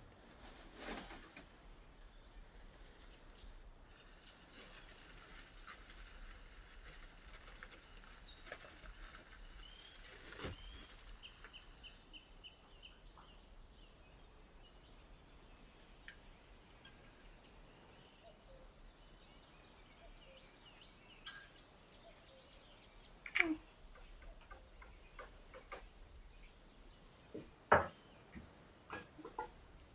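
Quiet kitchen handling sounds while hamburgers are made: scattered light clicks and knocks of utensils and dishes, with a soft hiss lasting several seconds a few seconds in, and a few sharper knocks in the second half.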